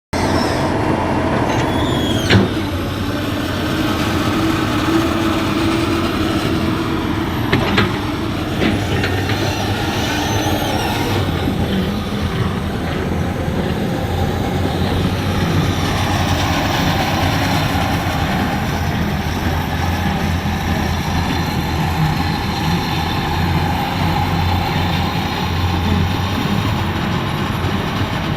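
Komatsu PC200 excavator's diesel engine running steadily, with two sharp metallic clanks about five seconds apart early on.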